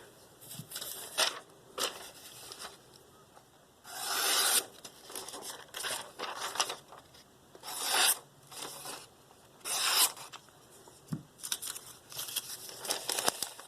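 Freshly sharpened Spyderco Paramilitary 2 blade slicing through a sheet of paper in several strokes, each a short papery hiss, the longest about four seconds in. It cuts nice and clean.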